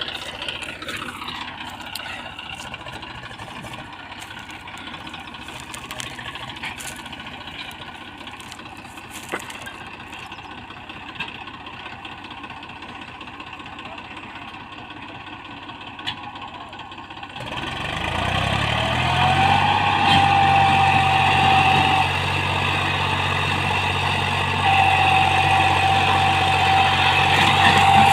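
Eicher 333 tractor engine running steadily at low revs. About two-thirds of the way through it revs up hard and keeps running loud, with a steady high whine over the engine note.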